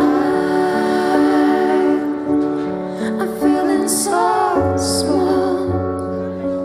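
Live acoustic ballad: sustained piano chords under a woman singing long, held notes with vibrato, and a deep bass note coming in about halfway through.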